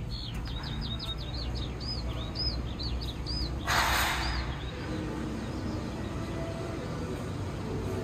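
A small bird repeats short high chirps, several a second, until about three and a half seconds in. A short sharp hiss follows about four seconds in, then a steady low hum.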